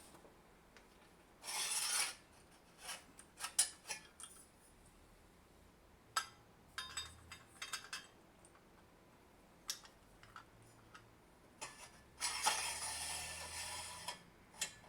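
Drill press parts being handled and fitted together by hand: rubbing and scraping with scattered clicks and knocks, including a short scrape about a second and a half in and a longer one near the end.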